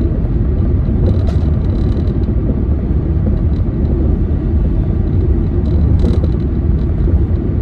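Steady low rumble of a car driving, engine and road noise, with a few faint clicks.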